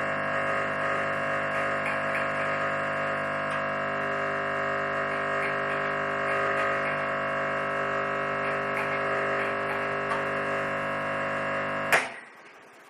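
Espresso machine pump buzzing steadily as it runs a cleaning backflush through the group head, then switched off with a sharp click about twelve seconds in.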